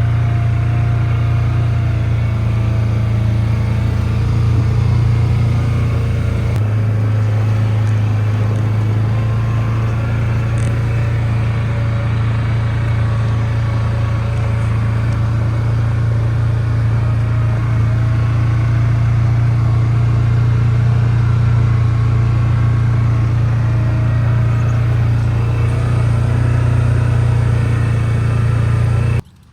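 Steady low drone of a car's engine and road noise, heard from inside the moving car. It cuts off abruptly near the end.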